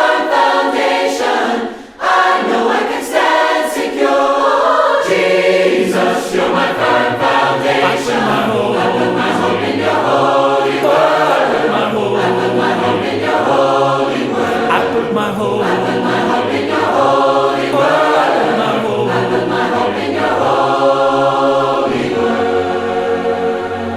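Choir singing a hymn a cappella in several parts; after a brief break about two seconds in, low bass voices join about five seconds in.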